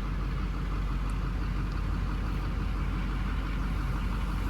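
2006 Chevrolet Silverado 3500 HD pickup's engine idling steadily just after a cold-free, first-try start; the owner believes it to be a diesel.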